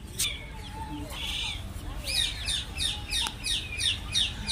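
A bird calling a quick series of about eight short notes, each falling in pitch, in the second half.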